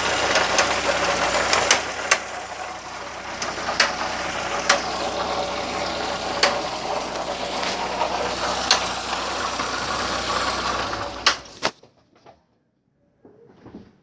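Volkswagen Gol 1.0 engine running, with sharp clicks or knocks coming at irregular intervals: a new noise that the owner cannot identify. The engine shuts off near the end, leaving quiet with a few faint small sounds.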